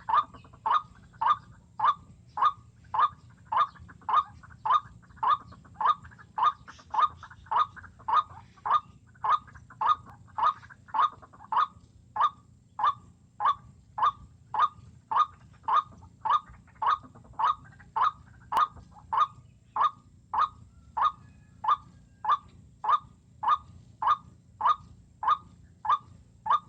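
White-breasted waterhen call, a short note repeated monotonously and very evenly about twice a second, as used to lure the birds into a snare.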